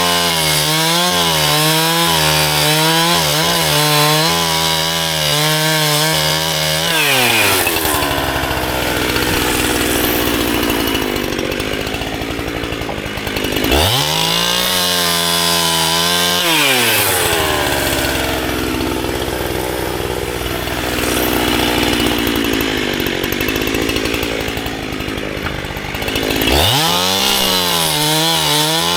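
Two-stroke chainsaw cutting dry firewood. It runs at high revs, then drops in pitch as the chain bites into the wood, twice, each cut lasting seven to nine seconds. Between the two cuts and at the end it climbs back to free-running revs.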